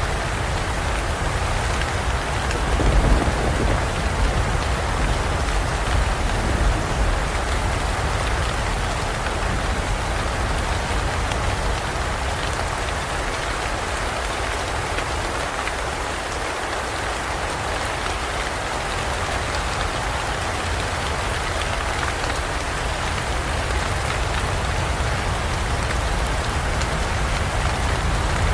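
Steady, dense rain falling, with a low rumble in the first several seconds that swells briefly about three seconds in.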